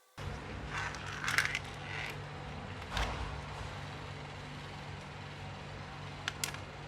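Light clicks and short scrapes of small hard parts being handled on a workbench, several close together in the first two seconds, one about three seconds in and a sharp one near the end, over a steady low hum.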